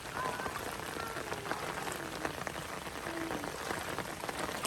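Steady rain falling, an even hiss broken by many small, separate drop hits.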